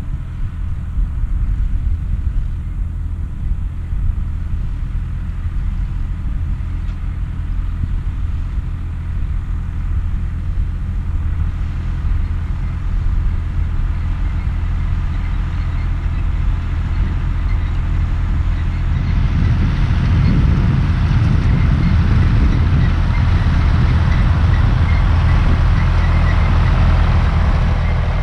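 John Deere 1030 tractor's three-cylinder diesel running steadily under load while pulling a hay tedder, growing louder about two-thirds of the way through.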